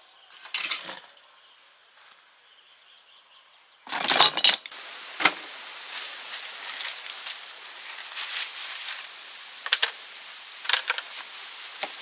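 A few sharp clinks and knocks, the loudest about four seconds in, then a steady hiss from just before five seconds with scattered light clicks.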